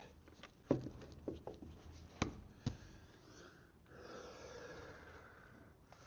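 Hand tools knocking and clicking against metal, a few sharp separate knocks in the first three seconds, followed by a soft steady noise for about two seconds.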